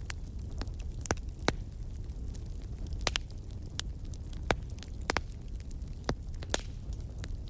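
Wood fire crackling in a fireplace: scattered sharp pops and snaps, about one a second, over a steady low rumble of the flames.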